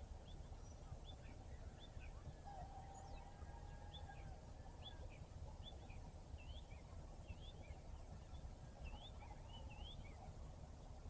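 Faint morning bird chorus: small birds chirping over and over in short quick notes, with one drawn-out rooster crow heard from afar a couple of seconds in, over a steady low rumble.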